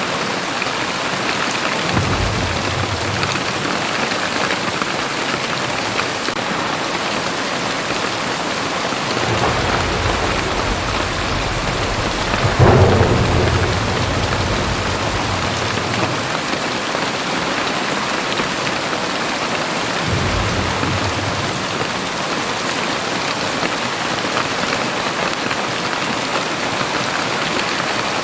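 Very heavy rain pouring steadily, with thunder. A short rumble comes about two seconds in. A longer rumble builds from about ten seconds in to a sharp crack near the middle, then rolls away, and another brief rumble comes about twenty seconds in.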